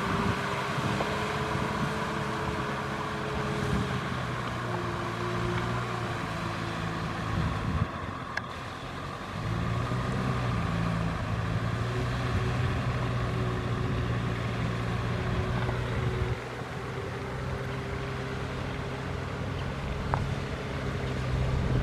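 Kubota M6040SU tractor's diesel engine running steadily under load in mud, its note easing briefly about eight seconds in before picking up again.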